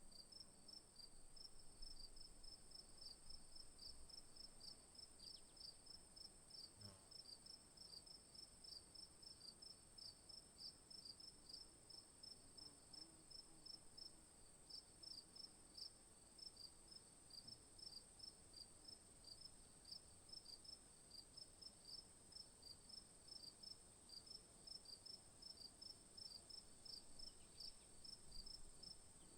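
Faint insect chorus: a steady high-pitched buzz with evenly repeated high chirps, a few a second.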